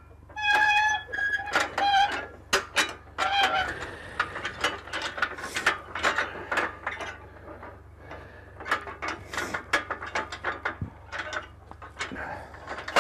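Irregular metallic clicking and clanking, like a ratchet or chain mechanism being worked, with a few short squeaks in the first few seconds.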